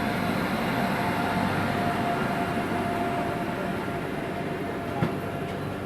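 Moving train's steady running noise, wheels on rails with a faint steady whine, easing slightly; a single sharp click about five seconds in.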